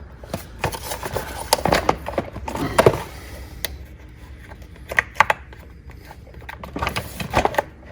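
Irregular clicks, taps and knocks of hand work on an electric ATV's plastic body panel as a 10 mm bolt is fitted through its mounting tab.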